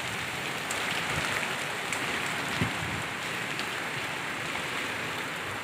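Steady rain falling onto a muddy courtyard, an even hiss of drops. There is a soft low thump about halfway through.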